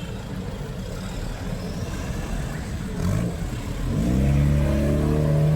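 Road traffic rumbling, then a motor vehicle's engine revving up close about four seconds in and running on loudly.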